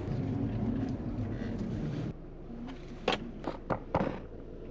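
Car engine idling, heard from inside the cabin as a steady low hum. It is louder and rougher for the first two seconds, then a few sharp knocks come about three to four seconds in.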